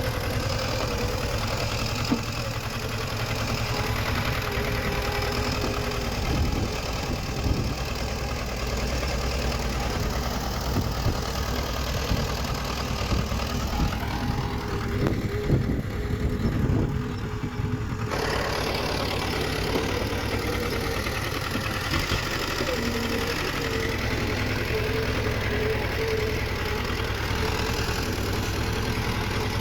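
Diesel engine of heavy earthmoving machinery running steadily, with a few clanks and knocks around the middle.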